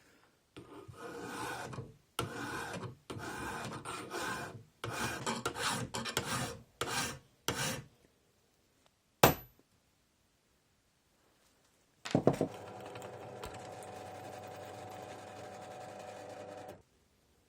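A hand file or rasp worked in about seven rough scraping strokes, then one sharp click. A small power tool motor then runs with a steady hum for about five seconds and cuts off.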